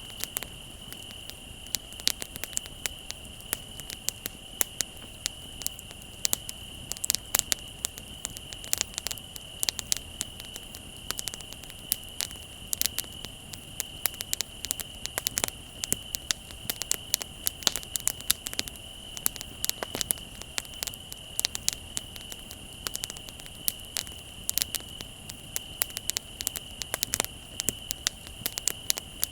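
Wood bonfire crackling with many irregular sharp pops, over the steady high trill of crickets.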